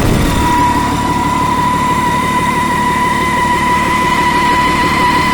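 Scania 420 DT12 12-litre straight-six diesel engine running steadily, with a steady high-pitched whine over the low engine note.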